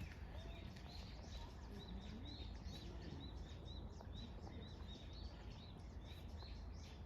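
A steady run of short, high chirps, a few a second, over a low rumble of wind or handling noise.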